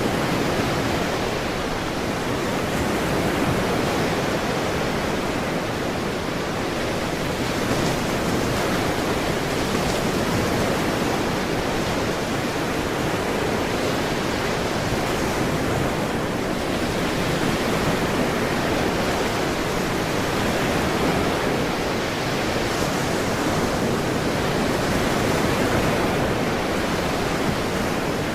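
Ocean surf: a steady wash of breaking waves that swells and eases gently, with no distinct single wave crashes.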